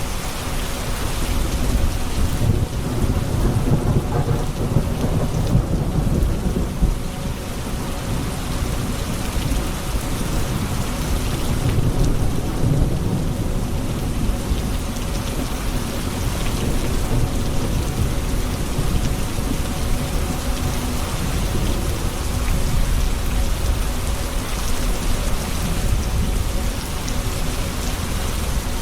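Heavy rain falling steadily on hard surfaces, with low rolling thunder that swells twice, a few seconds in and again about halfway through.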